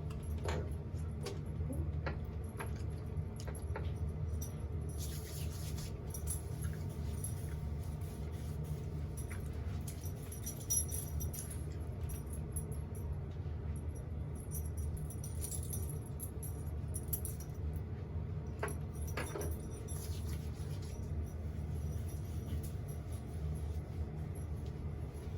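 Hands rubbing argan oil through hair: soft rustling with faint small clicks, over a steady low hum.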